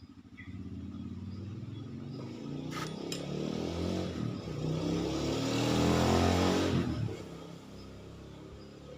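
Suzuki Satria two-stroke single-cylinder motorcycle engine revved up gradually, climbing in pitch and loudness for several seconds, then let fall back towards idle about seven seconds in. The engine is the one reported to sound rough and to have a slow clutch.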